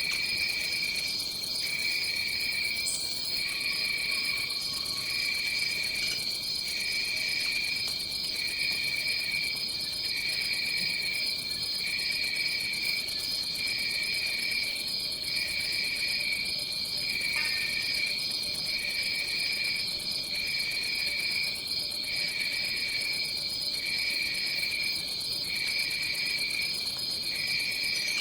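Tropical rainforest insect chorus: one steady high trill, and a lower trill that pulses on and off at an even pace about every second and a half.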